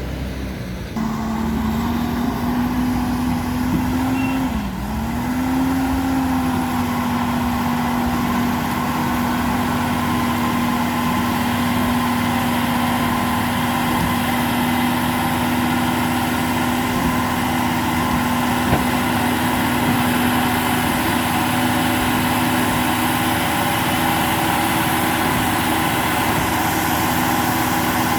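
Diesel engine of a Kawasaki 80 wheel loader running steadily while the machine is tested after a repair. Its note rises about a second in, sags briefly and recovers about five seconds in, then holds even.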